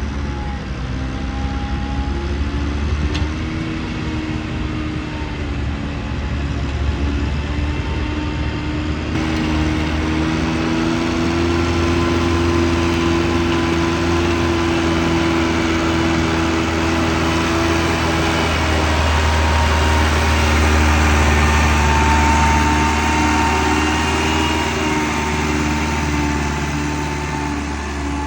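Heavily loaded truck's diesel engine running steadily, the sound swelling twice as it works harder.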